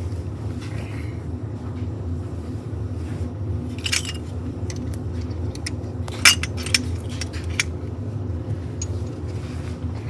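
Loose metal bolts clinking as they are handled: a few sharp clinks, the loudest a little past the middle, over a steady low hum.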